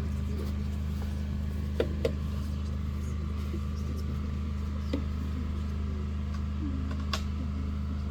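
Steady low electrical hum from the stage sound system, with a few short clicks and knocks: two close together about two seconds in, one near five seconds and one near seven seconds.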